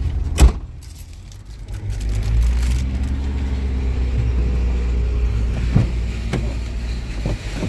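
A car door shuts with a sharp thump about half a second in; from about two seconds in, the car's engine runs with a steady low rumble, rising slightly in pitch, with a few light knocks near the end.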